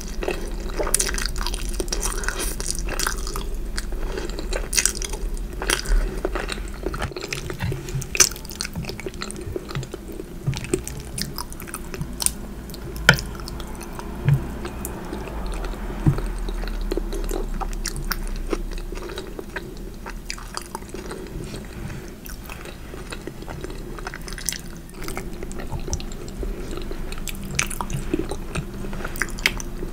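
Close-miked ASMR eating sounds: a person chewing and biting food, with many short sharp clicks from the mouth and the food scattered throughout over a low steady hum.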